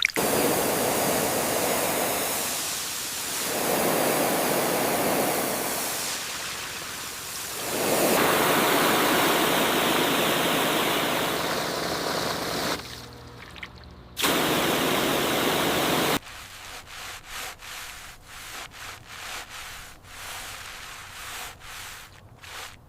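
Water spraying hard, cutting out about 13 seconds in and again about 16 seconds in, then scattered drips and small clicks.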